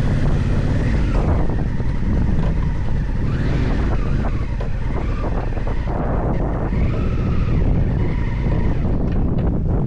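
Adventure motorcycle engine running under way, its pitch rising and falling as the rider works the throttle, with wind rushing over the microphone.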